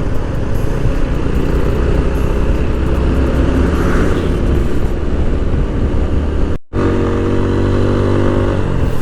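Motorcycle engine running steadily while riding, with a very brief cut in the sound about two-thirds of the way through.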